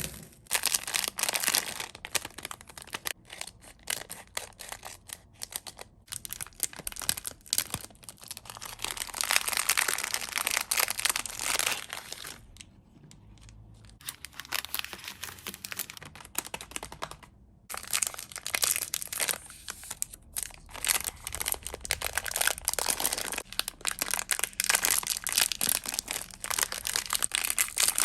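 Sweets and chocolates in plastic wrappers crinkling as they are handled and laid on a platter. The rustling comes in dense stretches, with a couple of short pauses around the middle.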